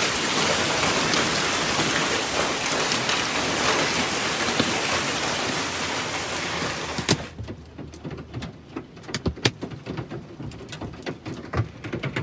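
Hail and rain pelting a car in a dense, steady rattle that cuts off abruptly about seven seconds in with a sharp knock, leaving scattered single hailstone hits. The hail is heavy enough to dent the car.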